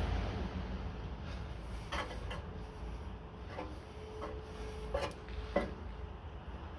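A few light knocks and rubbing from the newly fitted rear exhaust box being handled and adjusted, spread unevenly over several seconds.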